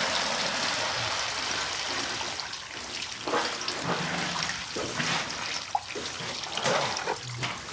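Water pouring and splashing, a steady rush at first that thins out after about two seconds into separate splashes.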